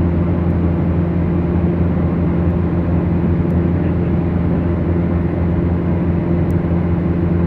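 Beechcraft Duchess twin-engine light aircraft's engines and propellers, a steady even drone heard in flight.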